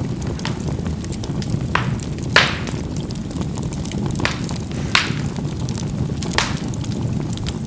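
Charcoal burning in a fireplace: a steady low rush of burning with scattered small crackles and about five sharper pops as the charcoal bursts. The loudest pop comes a little over two seconds in.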